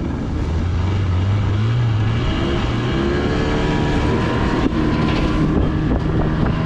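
A boat's motor running and speeding up, its pitch rising about two to three seconds in, over steady rushing noise.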